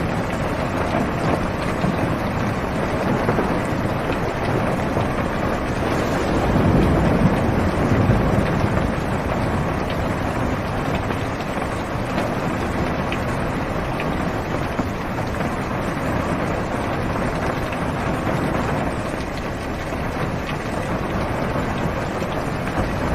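Heavy rain drumming on a car's roof and windows, heard from inside the cabin as a steady dense hiss. A low rumble swells briefly about seven seconds in.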